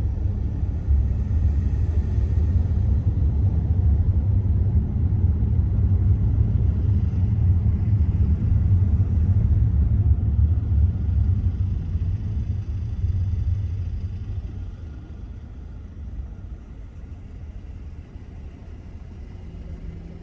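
Low, steady rumble of a car driving on city roads: road and engine noise. It eases off noticeably about two-thirds of the way through, as if the car slows.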